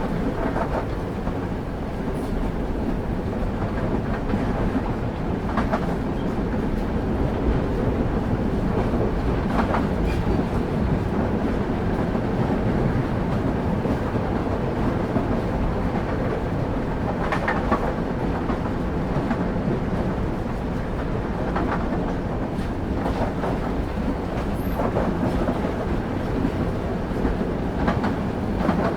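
Railway carriage running steadily on the rails, a dense low rumble with occasional clicks and knocks from the wheels and couplings.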